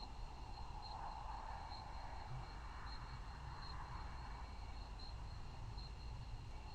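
Crickets trilling steadily, one high note pulsing brighter about once a second, over a faint low rumble.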